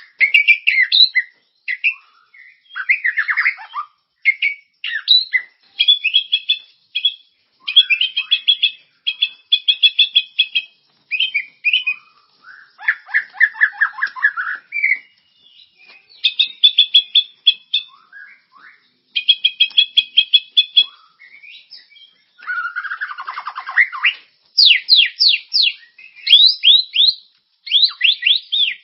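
Songbird song played as a masteran tutor recording for white-rumped shamas: a medley of varied phrases with pauses between them, including fast chattering trills and down-slurred whistles, and a run of quick sweeping notes near the end.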